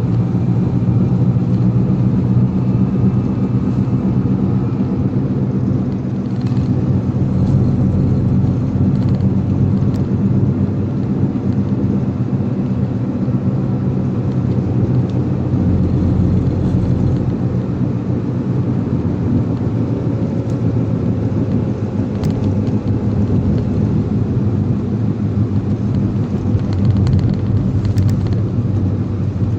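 Motor vehicle running steadily on the road: a low, even engine drone with road noise, and a few faint clicks.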